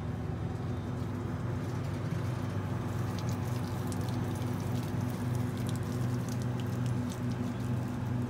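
Crash-damaged Waratah electric passenger train rolling slowly past at walking pace: a steady low hum with light, irregular ticking and clicking from the wheels on the track that starts about two seconds in.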